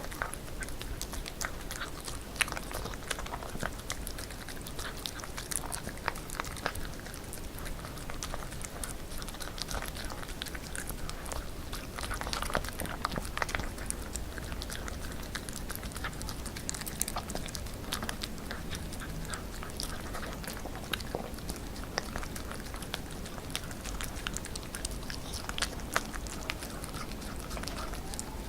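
A puppy chewing and biting chicken breast, a steady run of small, irregular chewing clicks.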